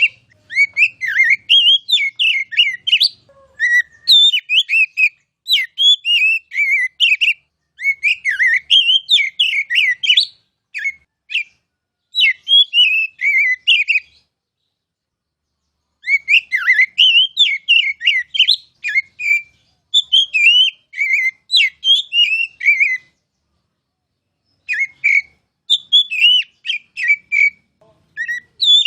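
Oriental magpie-robin singing loud, fast, varied phrases of whistles and chattering notes, with two pauses of a second or two about halfway and about two-thirds of the way through.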